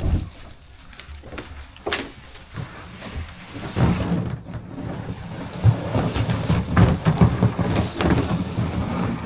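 Knocks and a rumbling scrape of gear moving against rock.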